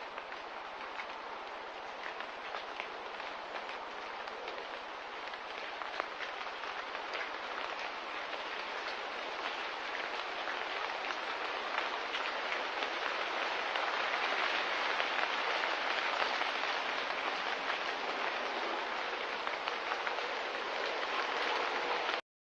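Steady light rain with fine pattering drops, slowly getting louder and then cutting off abruptly near the end.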